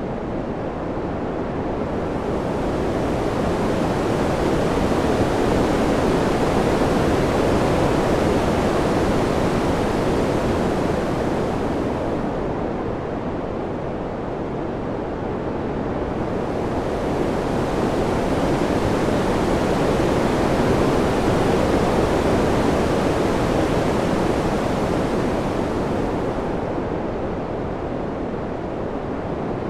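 Ambient wind noise, a dense even rush that swells and eases in two slow waves, its hiss growing brighter as it swells and duller as it fades.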